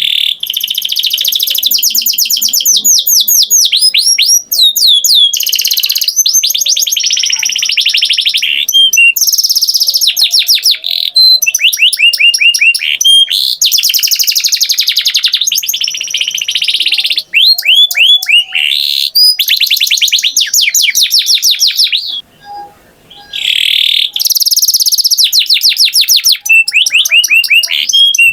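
Domestic canary singing a long, loud song of rapid trills of repeated notes and sweeping whistled glides, breaking off briefly about 22 seconds in.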